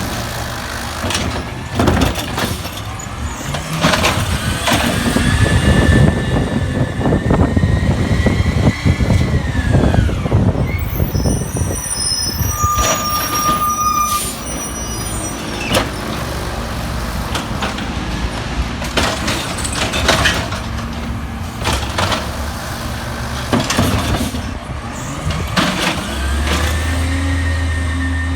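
Peterbilt 320 garbage truck at work: its engine revs up and holds for several seconds while the hydraulics run, then drops, with repeated bangs and clanks of the bins and packing gear. A short steady beep sounds about midway, and the engine revs up again near the end.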